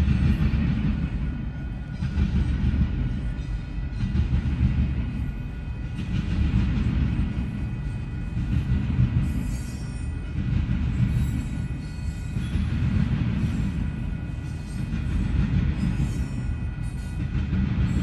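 A train rolling through a grade crossing: a heavy rumble of wheels on rail that swells and fades every couple of seconds as the cars go by, with the crossing's warning bells ringing steadily over it.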